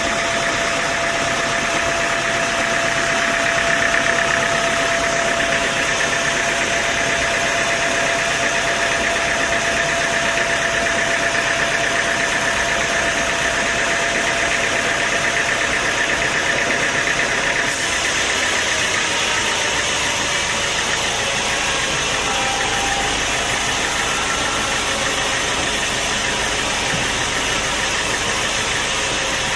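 Sawmill machinery running steadily, a continuous engine-like drone with a high whine, the mix changing abruptly about two-thirds of the way through.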